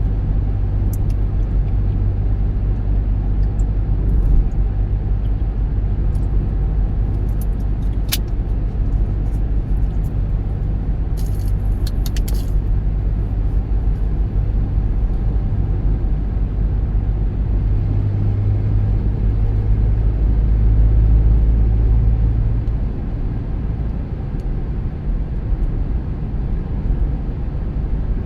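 Car driving on the road: a steady low rumble of road and running noise, swelling for a few seconds about two-thirds of the way through, then easing off. A few brief clicks sound around a third of the way in.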